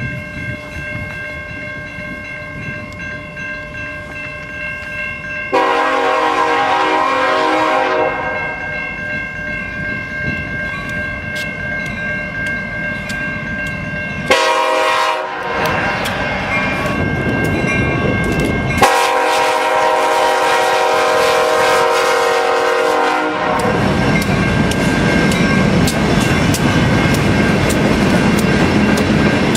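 CN freight locomotive horn sounding three blasts, the last about four seconds long. The train rolls past between blasts, and from near the end its cars keep up a steady rumble with wheels clacking over rail joints.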